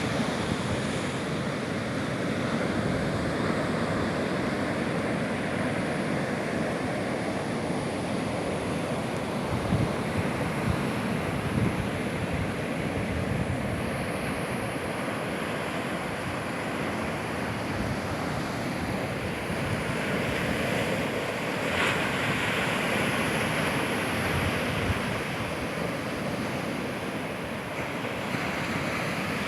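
Sea surf, a steady wash of waves with a swell about three-quarters of the way through, and wind buffeting the microphone.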